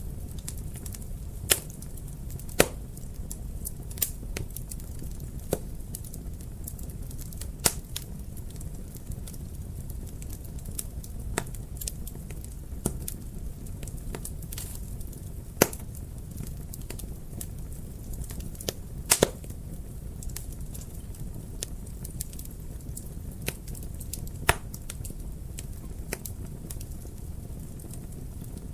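Wood fire burning in a fireplace: a steady low rumble with irregular crackles and sharp pops, a few of them loud.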